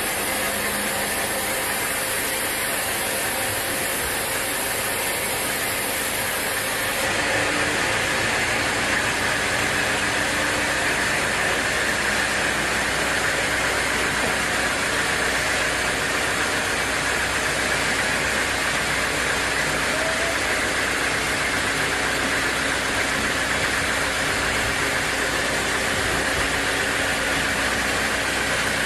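Sawmill machinery running steadily, a dense mechanical noise with a faint hum. The sound shifts and grows slightly louder about seven seconds in, then holds steady.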